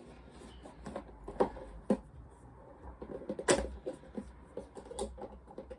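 Irregular clicks and knocks of a plastic action figure, its accessories and packaging being handled, with the sharpest knock about three and a half seconds in.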